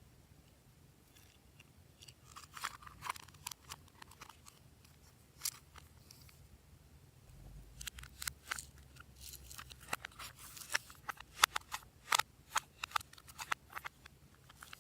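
Glossy slime being worked by hand, giving sharp sticky clicks and pops. They come scattered at first and then thick and fast through the second half.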